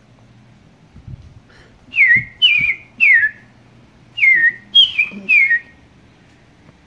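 Red-crested cardinal singing: two phrases of three loud, clear whistled notes, each note sliding down in pitch, with a short pause between the phrases.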